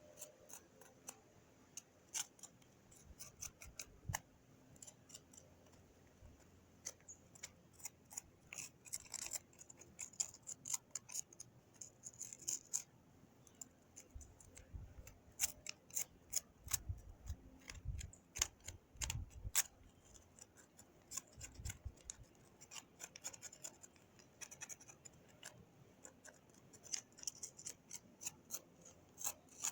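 Hand tools working on an old truck's rusted clutch: irregular clicking and scraping, with a few dull thumps around the middle.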